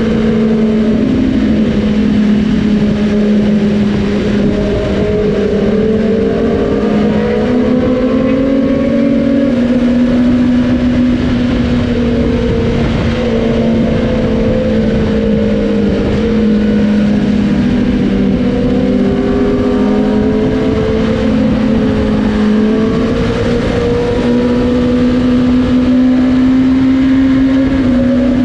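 Several superbike engines running together at highway speed, their exhaust notes held at slightly different pitches that drift slowly up and down and overlap, over a steady rush of noise.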